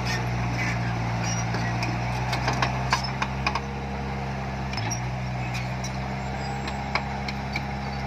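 Heavy diesel engine of earthmoving machinery running steadily, with its pitch dipping briefly about five seconds in, and scattered sharp clicks and clanks over it.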